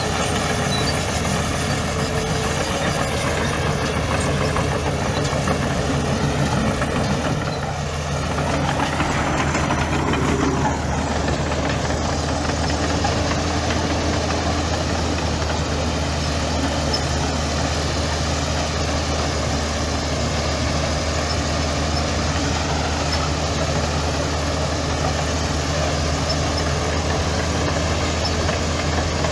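Heavy diesel engine of an earthmoving machine running steadily. About a third of the way through its note dips, then rises and falls again before settling back to a steady run.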